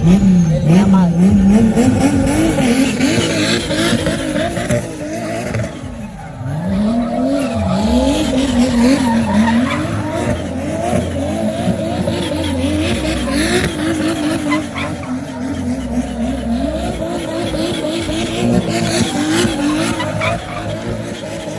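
Supercar engines revved again and again, the pitch climbing and falling in quick blips, with a dip about six seconds in before the revving picks up again.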